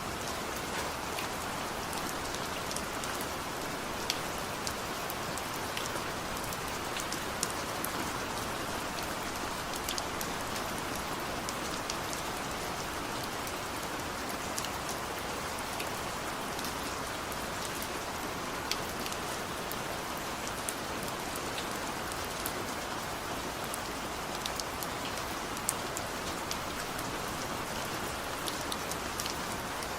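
Steady rain falling, an even hiss with scattered sharper taps of individual drops landing.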